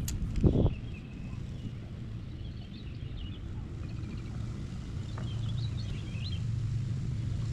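Birds chirping over a steady low rumble of wind on the microphone, with a single loud thump about half a second in.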